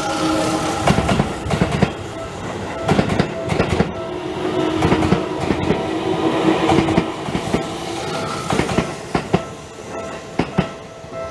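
Seibu 30000 series electric train passing over the level crossing, its wheels clacking irregularly over the rail joints. Evenly repeating tones from the crossing's warning bell ring through it and stand out more near the end as the train noise eases.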